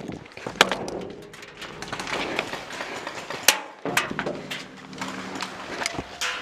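Airsoft gunfire: a handful of sharp cracks and knocks spaced a second or more apart, the loudest about three and a half seconds in.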